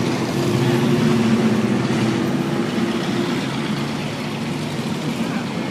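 A vehicle engine running, a steady low hum that is strongest in the first half and eases off after about three seconds.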